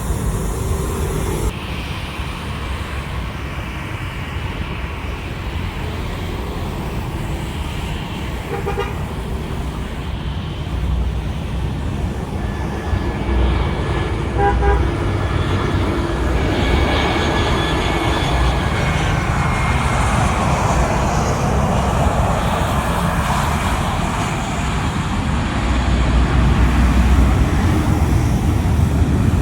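Steady outdoor traffic and engine rumble, with brief horn toots about nine and fifteen seconds in, swelling louder from about sixteen seconds and again near the end.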